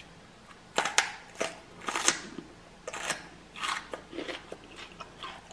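Close-up biting and chewing of a raw jalapeño topped with cream cheese: a string of sharp, crisp crunches at an uneven pace, loudest in the first couple of seconds.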